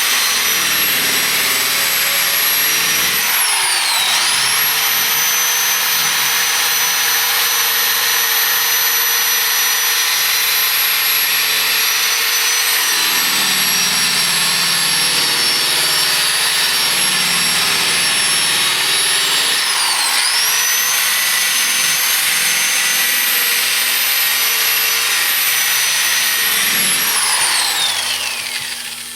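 Electric power buffer polishing stainless steel car trim, its motor running with a steady high whine. The pitch dips briefly and recovers twice, then falls away as the motor winds down near the end.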